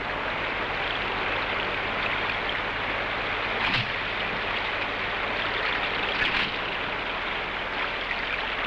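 River rapid rushing steadily, the continuous noise of white water, with a couple of faint brief splashes.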